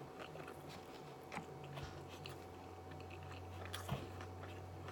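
Soft close-up chewing of a mouthful of shrimp tempura maki roll, with a few faint wet mouth clicks over a steady faint hum.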